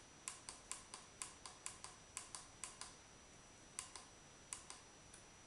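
Brightness control of a Yongnuo YN-160 LED video light being worked up and down: faint, quick clicks, several a second and unevenly spaced, with a short pause a little past the middle.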